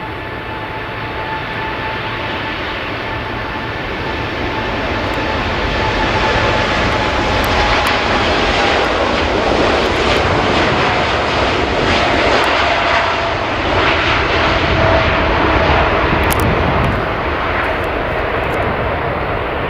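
Jet engines of a Boeing 747 at takeoff power: a steady roar that swells over the first several seconds and stays loud, with a whine that slowly drops in pitch.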